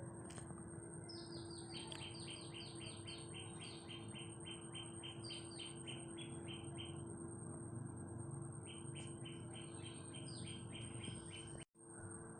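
A bird calling in fast runs of short repeated chirps, about five a second, each run lasting several seconds, over a steady low hum. The sound drops out briefly near the end.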